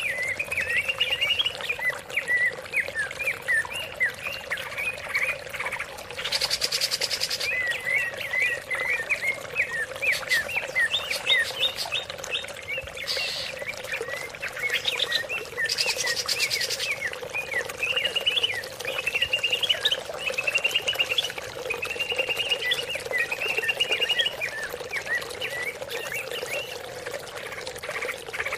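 Cucak ijo (green leafbird) singing a continuous run of quick chirps and whistles, broken by a few harsher, buzzier bursts, over a steady background of running water.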